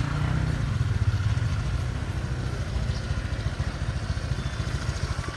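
Small motorbike engine idling close by, a fast low putter that grows quieter over the last couple of seconds.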